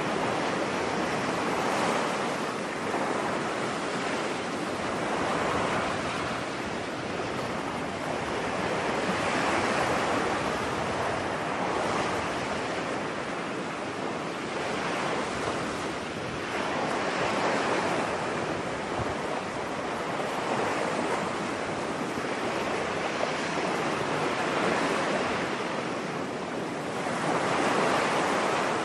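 Ocean waves breaking on a beach: a steady wash of surf that swells and recedes every few seconds.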